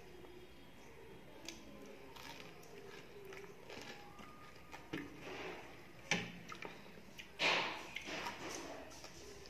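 A person chewing rice and fish curry eaten by hand, close to the microphone, with soft wet mouth sounds and fingers squishing the rice. A few louder wet smacks come about five, six and seven and a half seconds in, the last the loudest.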